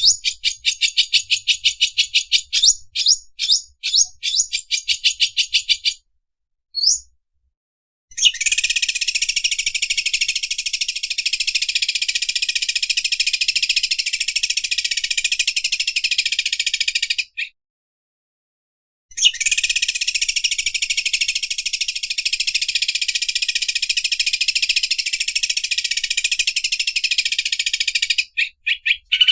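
Cucak ijo (greater green leafbird) singing its machine-like 'mesin obras' song. It opens with a fast run of high chirps for about six seconds, then gives two long, unbroken, high-pitched rattling trills of about nine seconds each, with a short pause between them.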